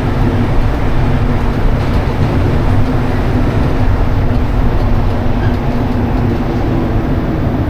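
Rubber-tyred Montreal Métro train running between stations, heard from inside the car: a loud, steady rumble with a constant hum underneath.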